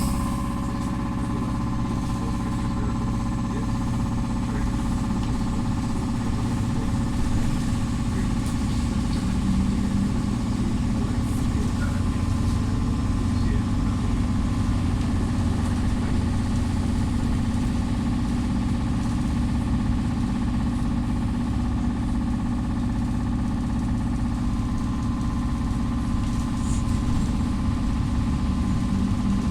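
Belkommunmash BKM 333 trolleybus heard from inside the cabin while running along: a steady electric drive whine of several held tones over a continuous low rumble of the running gear and road.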